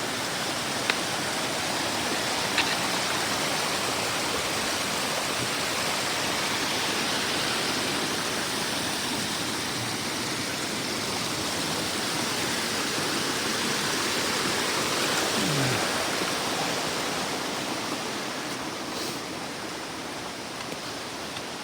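Steady rush of water from a mountain stream cascading down a small waterfall, with a couple of light ticks in the first few seconds. The rush eases off slightly near the end.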